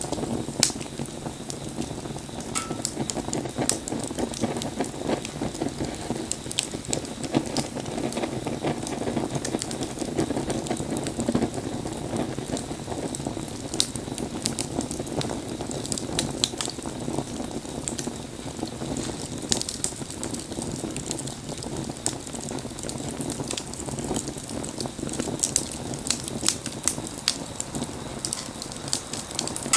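Wood fire burning: a steady low rush of flames with frequent sharp crackles and pops from the burning wood, coming thicker in the second half.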